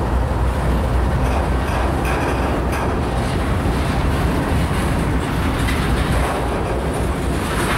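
Freight train of covered hopper cars rolling past close by: a steady rumble of steel wheels on rail, with a few short clicks a couple of seconds in.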